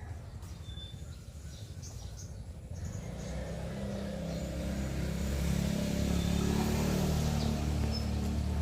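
A motor vehicle's engine running nearby, growing louder from about three seconds in and easing off near the end, as if driving past. Faint bird chirps are heard before it.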